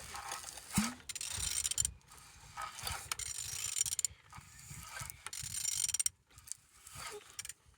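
Used car engine being turned over by hand at the crankshaft, making a ratcheting mechanical sound in three strokes of about a second and a half each. The engine turns freely, the sign that it is not seized.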